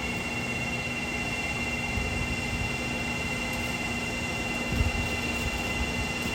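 Steady mechanical hum with constant tones over a background rumble, with a couple of dull low thumps about five seconds in.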